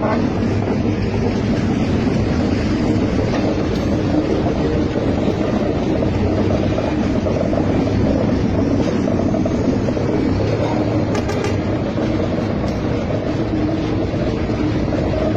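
Freight train running: a steady rumble with a low engine hum and no break, and a few faint clicks about two-thirds of the way through.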